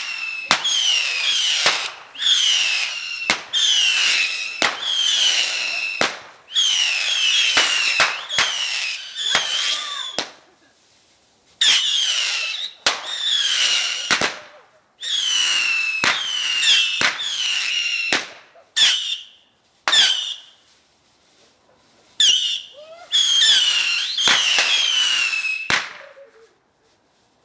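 Whistling bottle rockets firing one after another from a homemade automatic launcher. Each gives a falling whistle that ends in a sharp bang, about one a second, with a few short pauses in the volley.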